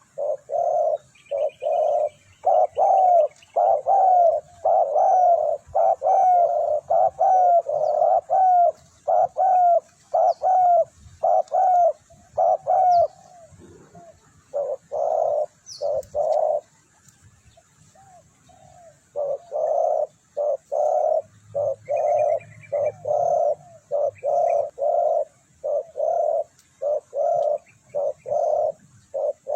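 A bird calling in a long series of short, loud call notes, each falling in pitch, about two a second. The series breaks off for a few seconds in the middle and then resumes.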